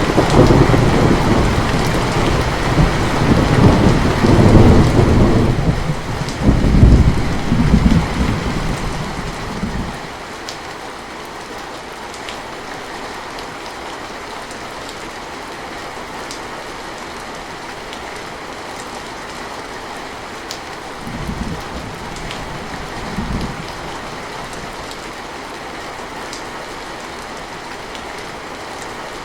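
Steady rain with thunder: a long, loud rumble of thunder dies away about ten seconds in, leaving the rain alone, and two short, fainter rumbles come later.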